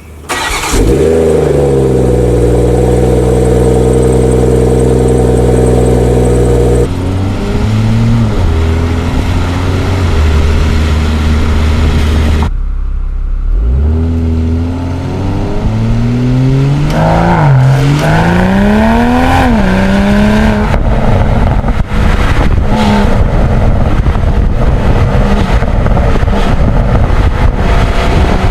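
BMW M340i/M440i turbocharged straight-six engine starting up, its revs flaring and then settling into a steady idle. Later the revs rise and fall in a couple of sweeps before holding steady again.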